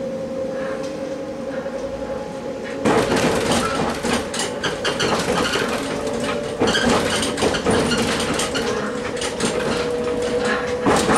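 Passenger train running, with a steady engine or drive whine. About three seconds in, dense clattering and knocking of the wheels over the track joins it and carries on, with one louder knock near the end.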